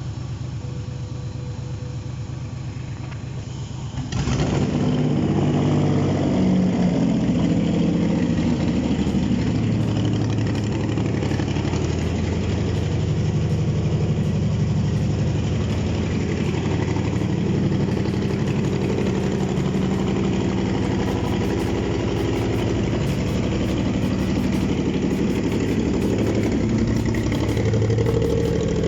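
Nissan VQ35 3.5-litre V6 on an engine test stand being cranked by its starter, catching about four seconds in and then running steadily at idle on its first start.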